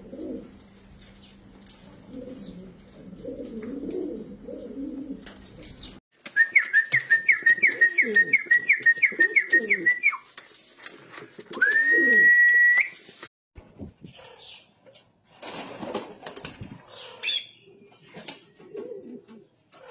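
Pomeranian pouter pigeons cooing. Midway comes a run of about a dozen quick, high, whistled notes, then one long high whistle that rises and holds.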